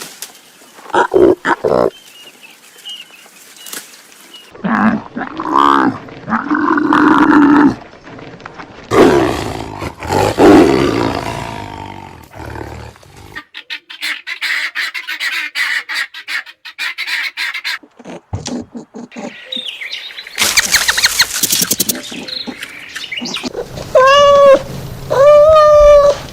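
A run of different animal calls one after another, big-cat roars among them, ending in three short pitched calls that rise and fall.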